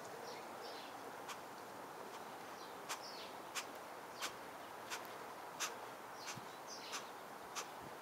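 Faint outdoor ambience: small birds chirping in short high notes, with sharp clicks repeating about every half to three-quarters of a second over a light hiss.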